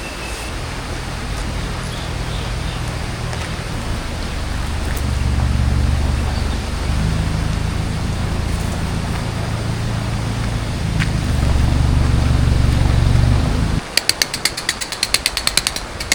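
A low, steady droning hum whose pitch shifts in steps, cutting off suddenly near the end; a rapid, even run of clicks follows.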